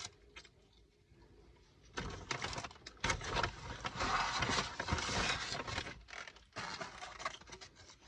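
Takeout food packaging rustling and crinkling as it is handled and opened, starting about two seconds in and dying down to a few light crackles near the end.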